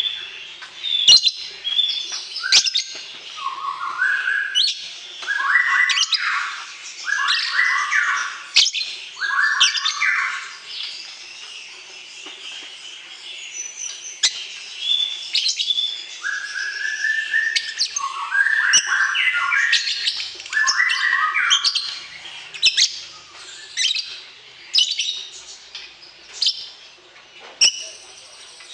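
Songbirds chirping and calling without pause: rapid high chirps and sharp ticks, broken twice by runs of short buzzy notes that climb in pitch. It is bird song played to provoke a caged bird into answering.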